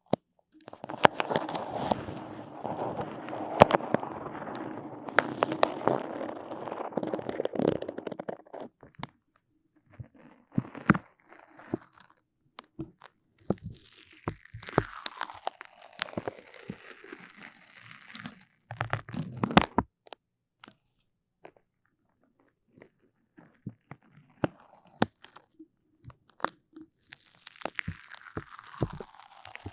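Close-miked sticky crackling and clicking, dense for the first several seconds and then sparser, with two drawn-out sounds sliding down in pitch, one about halfway and one near the end.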